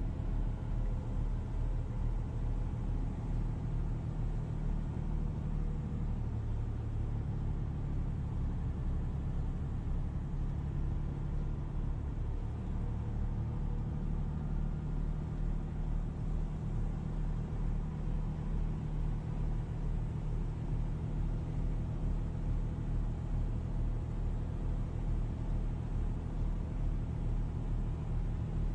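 A motor vehicle's engine running steadily at cruising speed, a low pulsing drone whose pitch shifts slightly a couple of times.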